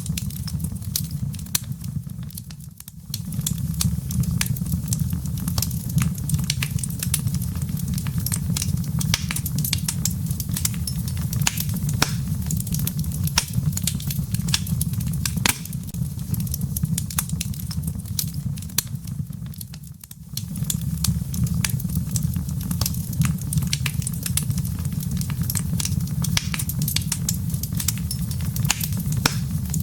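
Wood fire in a fireplace crackling: dense, irregular pops and snaps of burning wood and embers over a steady low rumble of flames. The sound dips briefly twice.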